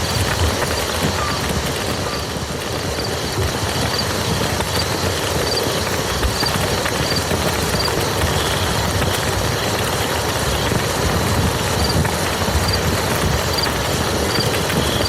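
Steady rain falling on a muddy field, a dense, even patter of drops.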